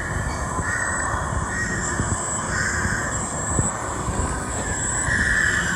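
Birds calling repeatedly, a string of half-second calls, over a steady low rumble.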